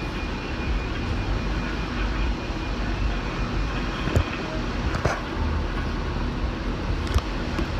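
Car engine idling with a steady low rumble while the car waits at a drive-thru. A few faint clicks come through, about four, five and seven seconds in.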